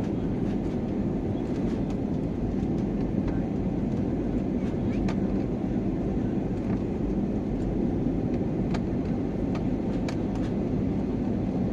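Airliner cabin noise in flight: the steady sound of the engines and rushing air heard from inside the cabin, with a few faint clicks.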